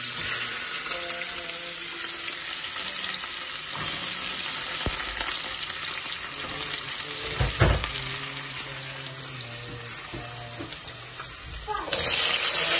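Chopped onions sizzling and frying in hot oil in an aluminium pot, with a few knocks against the pots, the loudest about halfway. Near the end the sizzle jumps louder as onion pieces are dropped into a second pot of hot oil.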